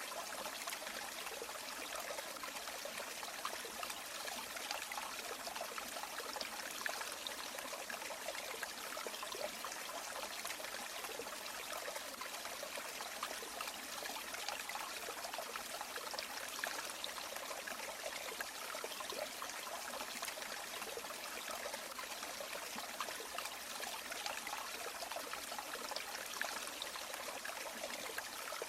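A river or stream flowing steadily, with water rushing and trickling evenly.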